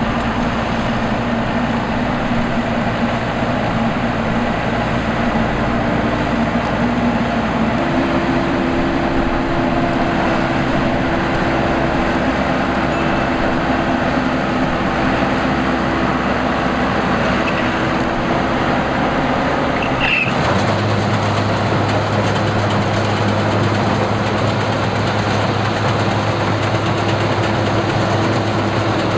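Combine harvester running steadily with a constant engine hum. The pitch of the hum changes abruptly twice, about eight and twenty seconds in.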